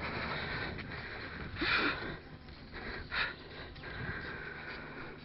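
A cyclist's two sharp breaths through the nose, about two seconds in and again just past three seconds, over the steady noise of riding.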